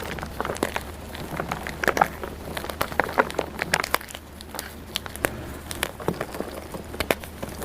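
Blocks of dyed gym chalk being crushed and crumbled, a run of irregular crisp crunches and crackles, several a second.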